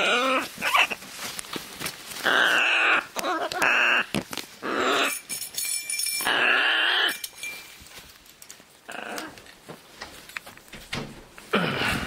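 Scarlet macaws squawking: a series of about six loud, harsh calls, each half a second to a second long, with short pauses between.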